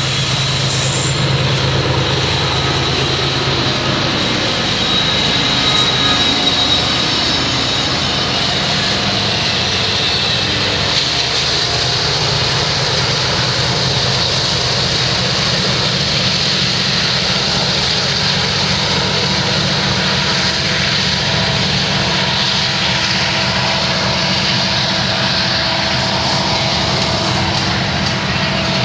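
BNSF coal train passing close by: diesel locomotives running, their engine hum strongest in the first few seconds. Then coal hoppers roll by with steady wheel-on-rail noise.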